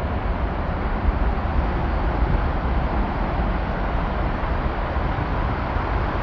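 Large waterfall swollen by days of monsoon rain, water crashing onto rocks: a steady, loud rush with a deep rumble underneath.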